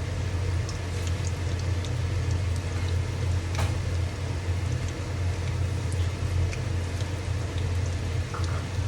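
Fish pakoras deep-frying in hot oil: a light crackle of scattered small pops over a steady low hum.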